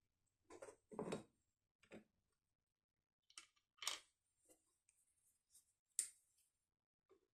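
Faint, scattered clicks and rustles, about half a dozen short sounds spread through a quiet stretch.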